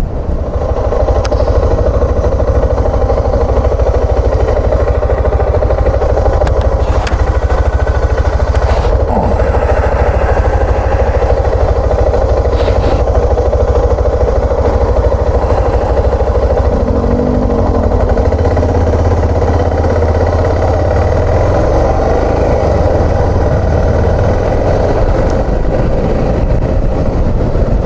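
Suzuki XF650 Freewind's single-cylinder engine running steadily as the motorcycle is ridden along.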